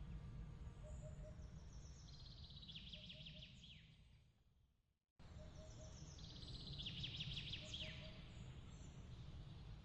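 Nature-ambience track of bird chirps and quick trills over a low, steady rumbling background. About four seconds in, it fades out to dead silence for a moment, then restarts abruptly with the same pattern, the seam of a repeating loop.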